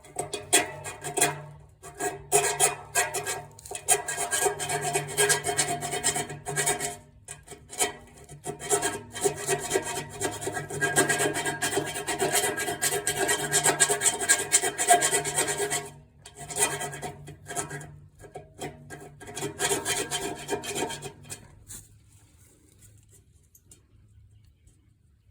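Power drill boring through the nested steel exhaust-stack pipes in start-stop bursts, the bit grinding and rasping into the metal. It stops about three seconds before the end.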